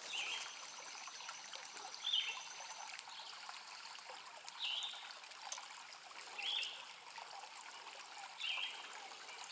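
Small creek trickling and running steadily over stones, with a short high chirp about every two seconds.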